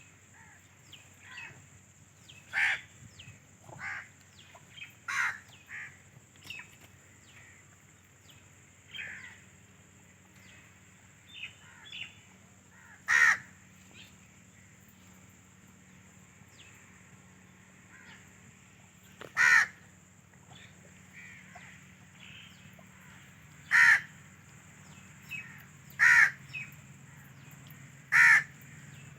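Birds calling: a series of short, separate calls, the loudest every few seconds with fainter ones between, over a steady high hiss.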